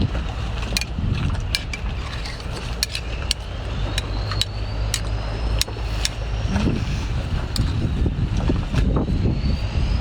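Wind buffeting the microphone at the seashore: a steady low rumble, with many sharp clicks scattered through it.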